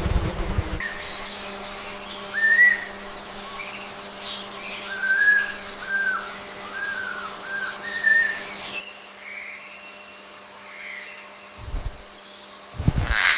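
A bird calling: a run of short whistled notes, each rising and falling, from about two to eight seconds in, over a steady faint hum. Near the end come two low thumps and a sharp click.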